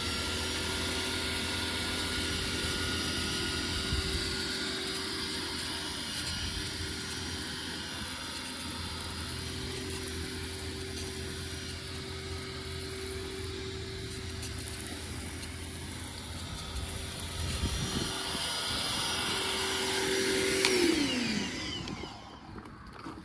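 Electric vacuum cleaner motor running at a steady pitch, then winding down and stopping near the end.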